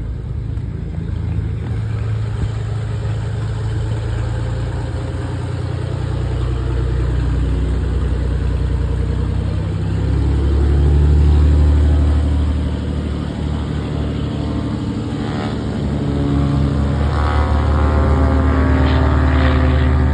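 Light propeller airplane engine running close by. It grows louder about halfway through, eases off, then builds again near the end.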